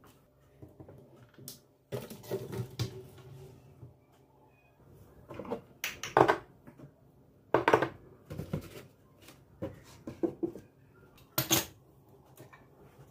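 Kitchenware being handled: a string of separate clatters and knocks as dishes, pots and utensils are picked up and set down.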